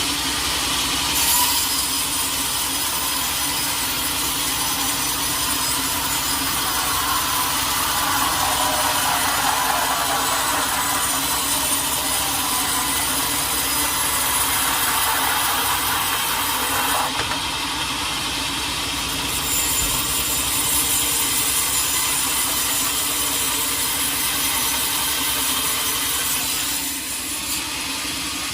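A sawmill saw cutting lengthwise through a large teak log, a steady noisy rasp over the hum of the mill's motor. The tone of the cut shifts a few times along the way.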